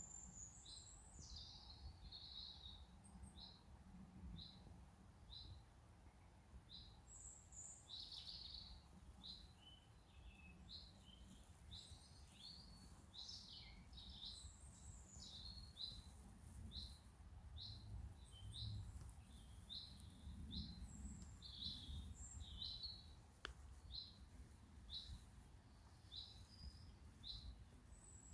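Woodland birdsong: one bird repeats a short, high note about once a second, while other birds chirp higher and more irregularly. A faint low rumble runs underneath.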